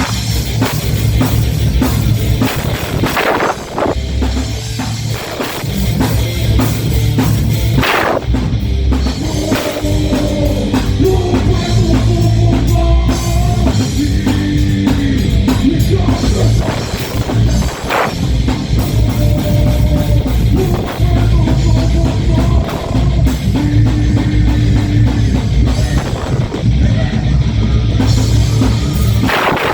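Heavy rock/metal band playing live: a pounding drum kit and electric guitars carrying held melodic lines, with cymbal crashes now and then.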